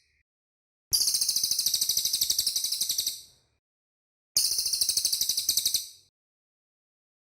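Cililin songbird calling: two long, rapid trills of very high, fast-repeated notes, the first about a second in and the second, shorter, a little past the middle.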